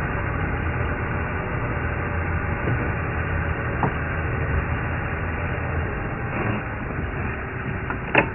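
Game-drive vehicle's engine running, a steady low hum with a hiss over it. A few faint ticks and one sharp crack or knock near the end.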